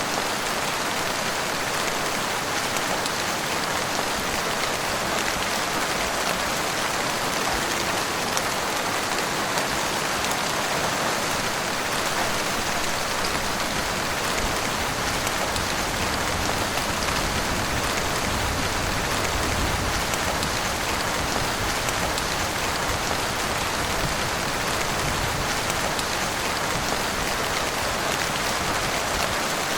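Heavy rain falling steadily in a dense, even patter. A low rumble swells briefly about two-thirds of the way through.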